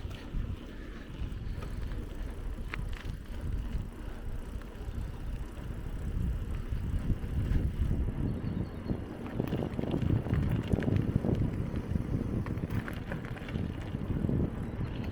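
A bicycle riding a forest track: tyres rolling over dirt and gravel, with scattered rattling clicks and wind rumbling on the microphone. It grows louder about halfway through.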